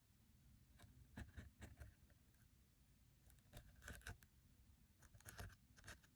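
Slime being squished and stretched by hand, making faint sticky clicks and small pops in three short bursts.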